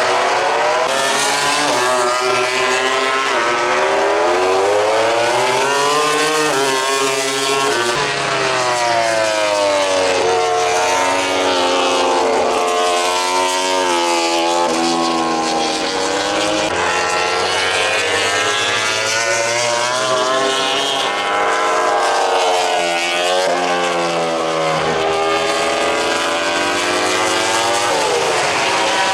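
MotoGP prototype racing motorcycles, including the Honda RC213V's 1000 cc V4, revving hard on track. Several engines overlap, their pitch rising under acceleration and falling on the overrun and downshifts as the bikes pass.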